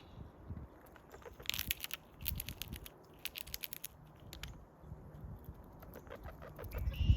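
American red squirrel gnawing and crunching food up close: three quick runs of sharp, crackling clicks in the first half.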